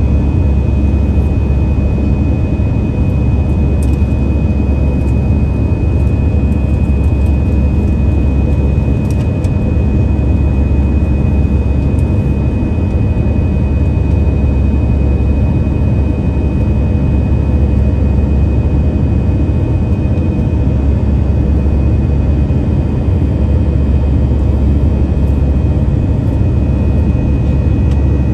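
Airbus A321-200's twin jet engines running at steady power, heard inside the passenger cabin: a deep, loud rumble with a thin high whine held on one pitch.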